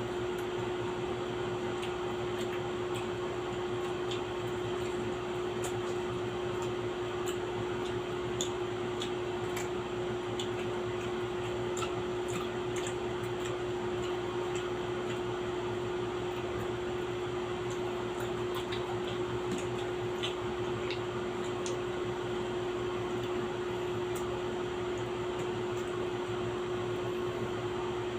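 Steady machine hum holding one constant tone, like a household fan or appliance, with faint scattered clicks and ticks of eating and utensils.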